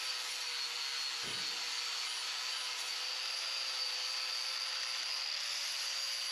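A machine running steadily, an even hiss with a faint wavering whine, unchanged throughout.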